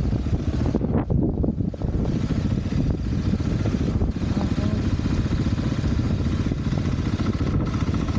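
Dirt bike engine running under way on a trail, with a dense, fast low pulse; it eases off briefly about a second in, then picks up again.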